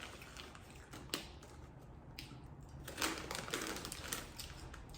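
Crunchy corn chips being chewed close to the microphone: irregular crisp crunches in small clusters, the loudest a little after three seconds in.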